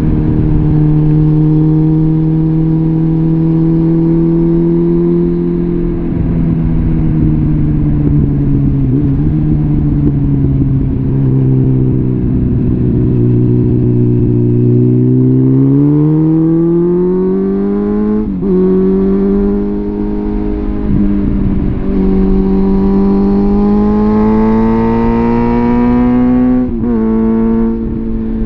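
Suzuki GSF650 Bandit's inline-four engine breathing through a full Arrow aftermarket exhaust on the move. It holds a steady pitch, drops lower around six seconds in, then pulls up in pitch under acceleration. Twice, near eighteen and twenty-seven seconds, a brief dip breaks the climb, the sound of quick upshifts.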